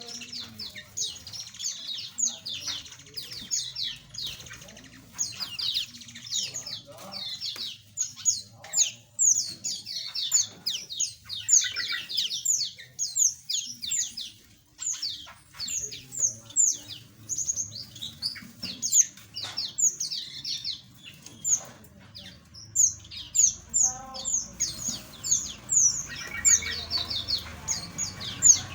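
Many small aviary birds chirping together, a dense stream of short, high, overlapping chirps.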